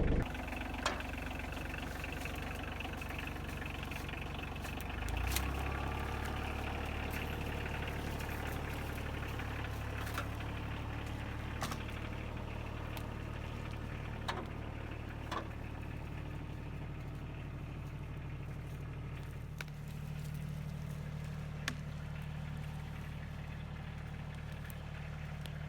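Tractor engine running steadily, its note shifting and getting louder about five seconds in and changing again near the end, with a scattering of sharp clicks and knocks over it.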